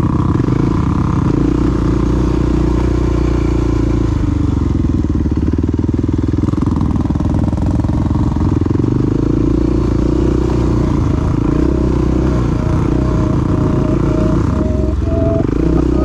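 Single-cylinder four-stroke dual-sport motorcycle engine running while riding, its pitch rising and falling as the throttle is worked.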